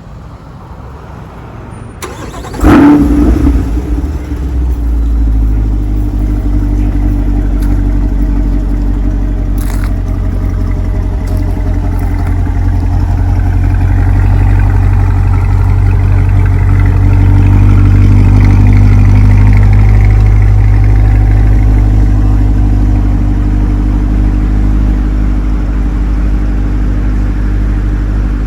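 2020 Chevrolet Corvette C8 Stingray Z51's 6.2-litre LT2 V8 starting up: it catches about three seconds in with a loud flare of revs, then settles into a steady idle that swells slightly midway.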